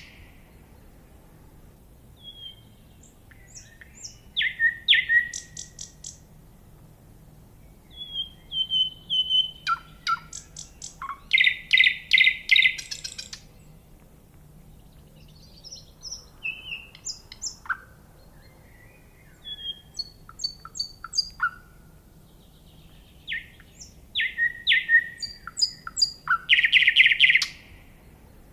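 A songbird singing in separate phrases of quick chirps and loud, rapid trills, one phrase every few seconds with short pauses between.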